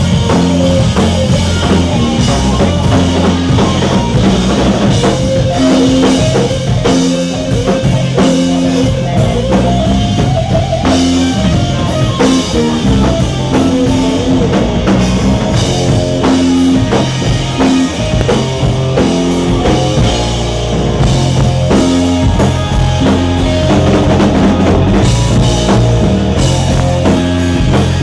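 Rock band playing an instrumental passage live: a drum kit keeps a steady beat under electric guitar and a moving bass line.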